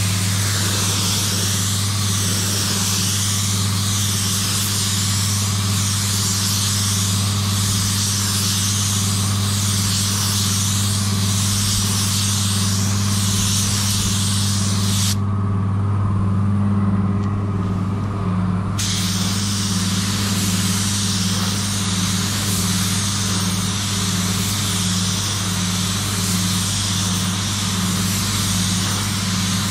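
Compressed-air spray gun hissing as clear coat is sprayed in repeated passes, the hiss rising and falling with each stroke. It stops abruptly for a few seconds about halfway through, then resumes. A steady low machine hum runs underneath.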